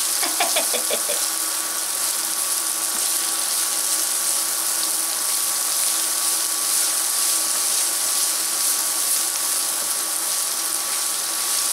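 Diced bacon, onion, garlic and green onions sizzling steadily as they fry in rendered bacon fat in a nonstick pan, stirred with a silicone spatula.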